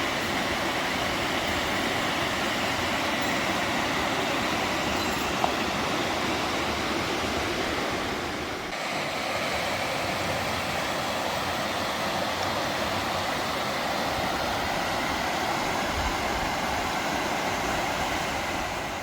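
Steady rushing of the Sheep River's flowing water, with a brief slight dip about nine seconds in.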